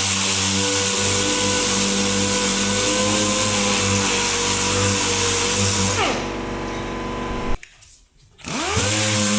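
A power tool running steadily with a hiss. About six seconds in it winds down and stops briefly, then starts and spins back up near the end.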